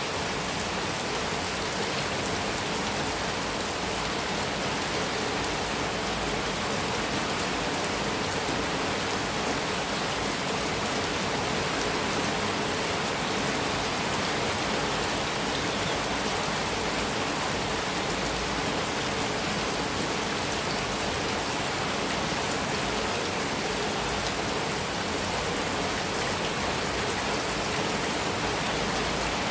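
Heavy rain falling steadily on a metal roof.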